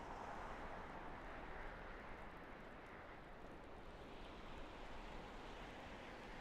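Distant highway traffic: car tyres hissing through slush and snow as vehicles pass, a steady wash that swells a little near the start and again about two-thirds through.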